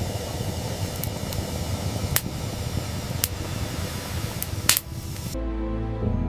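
A steady rushing noise broken by sharp crackles about once a second. A little over five seconds in it cuts off suddenly, and soft music with sustained notes takes over.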